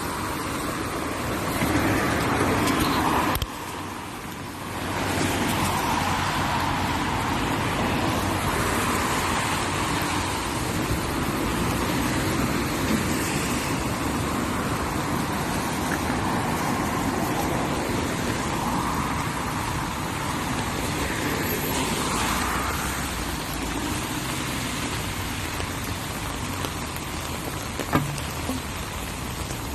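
Steady street ambience of road traffic mixed with falling rain. The level drops suddenly about three seconds in and comes back a second or so later, and there is a single sharp click near the end.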